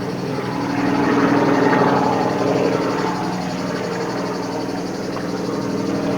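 A steady mechanical drone with an even hum, like a running motor, swelling slightly about a second in.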